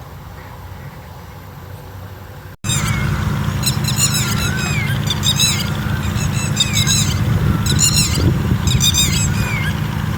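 A steady low rumble, then, after a sudden cut about two and a half seconds in, birds calling loudly in clusters of high, squeaky chirps roughly once a second over a low rumble.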